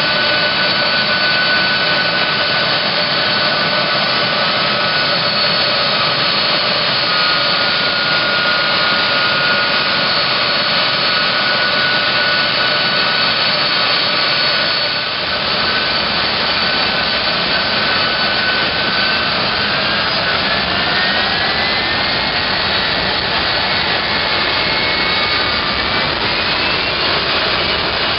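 Boeing C-17 Globemaster III's four Pratt & Whitney F117 turbofan engines running loud and steady, a whine of several tones over the rush. About two-thirds of the way through, the whine rises in pitch as the engines speed up.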